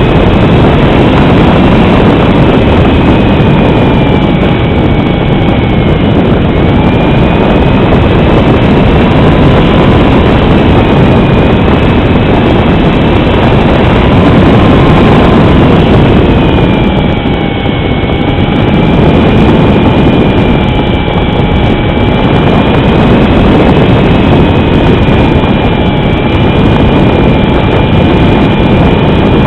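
A Cessna 310's twin propellers and engines running in flight: a steady, loud rush of air with two whining tones that drift slowly up and down in pitch, easing briefly a little past the middle.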